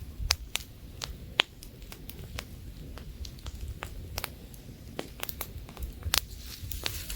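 Wood campfire crackling, with irregular sharp pops and snaps, the loudest about a third of a second and about a second and a half in and a cluster just after six seconds. A low rumble of light wind runs underneath.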